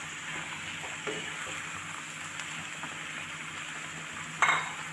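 Onions with ginger and garlic paste frying in butter in a pan, a steady sizzling hiss. Near the end there is a sudden, louder burst.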